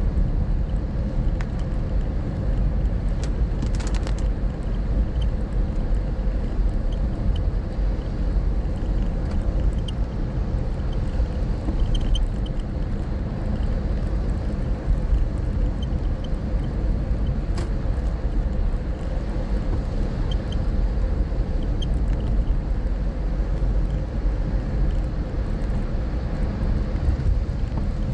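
Toyota Prius on the move: a steady road and running rumble with faint, short, high chirps coming now and then. The chirp is an abnormal noise that appears in wet weather.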